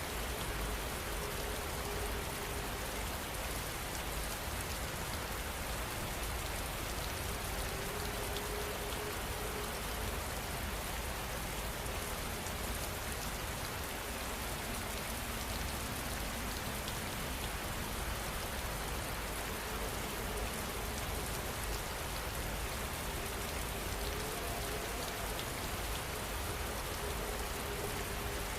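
Steady rain falling on a surface, an even rushing patter with no let-up.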